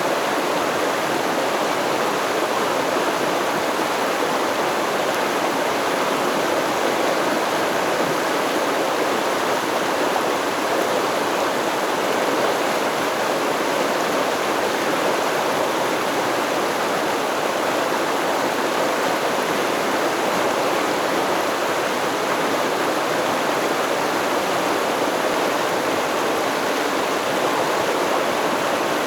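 Stream water flowing and babbling over rocks, a steady rushing with no pauses or changes.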